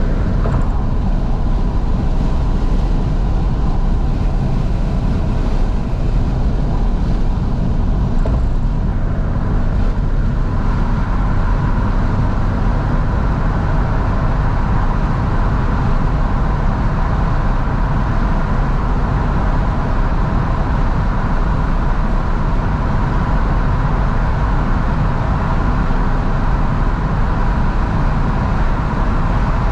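2012 FIAT 500S on the move, heard from inside the cabin with all windows open: steady engine, road and wind noise. About ten seconds in, a steadier hum joins the noise.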